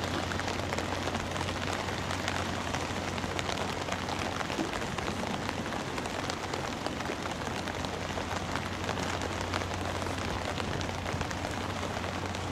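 Steady rain falling on the sea, a dense patter of many small drops, over a low steady hum.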